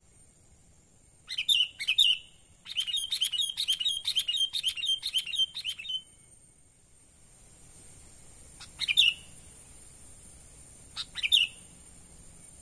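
Sooty-headed bulbul (kutilang) calling: a pair of liquid notes, then a quick chattering run lasting about three seconds, then two short calls spaced well apart later on.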